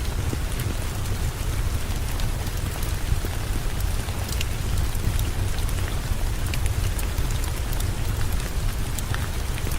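Heavy rain falling steadily, with a deep low rumble underneath and many scattered sharp ticks and crackles.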